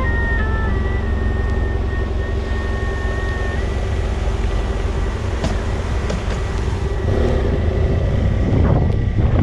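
BMW F800GS motorcycle riding along with wind noise on the microphone: a steady low engine and road drone. A faint melody of background music sits over it in the first few seconds.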